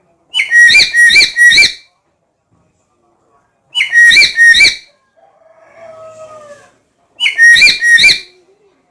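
Black-capped lory calling: three loud bursts of three short, shrill notes each, a few seconds apart, with a fainter, lower, drawn-out falling call between the second and third bursts.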